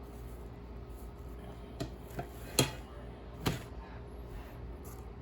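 Four light knocks and clicks of kitchen things being handled, the loudest a little past halfway, over a steady low hum.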